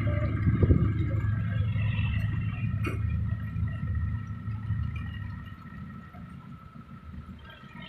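An engine running with a steady low hum, growing fainter from about five seconds in; a brief click about three seconds in.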